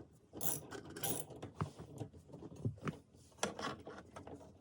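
Irregular mechanical clicks, scrapes and rattles of hand work on dashboard parts.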